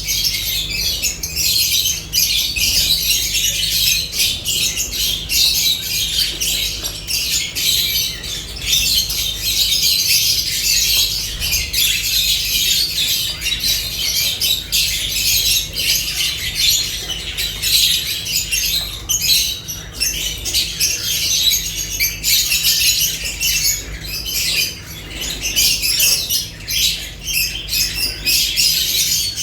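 Lovebirds squawking and chattering continuously, a dense mix of sharp high calls with clicks and a little wing-flapping, over a low steady hum.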